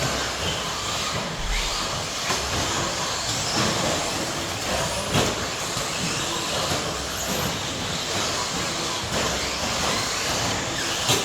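A pack of 1/10-scale electric stadium trucks with 13.5-turn brushless motors racing: a steady hiss of motor whine and tyres on the track, broken by a few sharp knocks.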